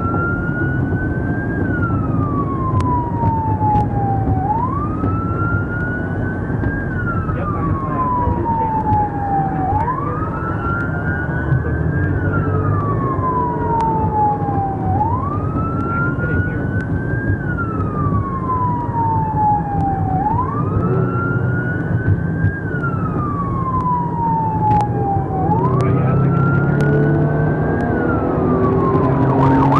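Police car siren wailing, each cycle rising quickly and then falling slowly, about every five seconds, over the steady low rumble of a vehicle on the move.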